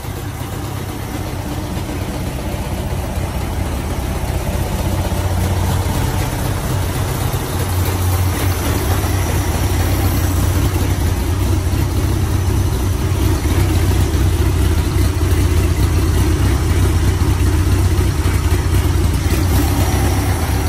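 Air-cooled VW Beetle flat-four engine, bored out to 1914 cc (94 mm bore, 69 mm stroke), with a single Solex 37 mm carburettor and a camshaft made for single-carb use, running steadily. It grows louder over the first few seconds, then holds even.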